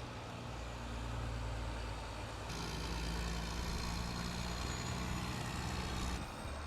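A truck's engine running with a steady low hum. The sound jumps brighter about two and a half seconds in and changes abruptly again near the end.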